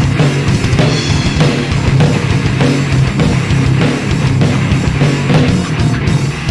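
Heavy metal music: distorted electric guitars and a drum kit playing an instrumental passage between sung lines.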